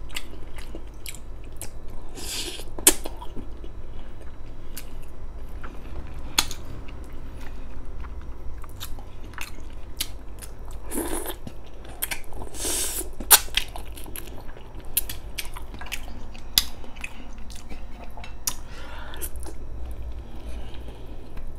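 A person chewing and biting braised pork ribs eaten off the bone by hand, with many short mouth clicks throughout and two longer hissing sounds, about two seconds in and again near the middle.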